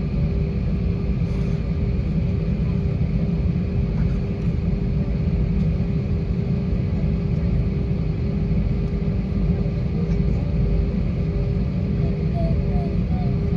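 Steady low rumble inside the cabin of an Airbus A320-232, its IAE V2500 engines and airflow running evenly, with a steady hum over the rumble.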